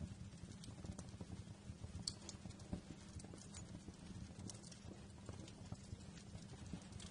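Wood fire crackling: irregular small pops and snaps over a low, steady rumble of flames, with a couple of sharper snaps about two and four and a half seconds in.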